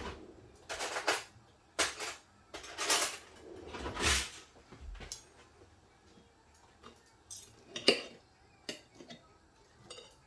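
Cutlery scraping and clinking against a plate: four scrapes in the first half, then a few lighter clinks, the sharpest about eight seconds in.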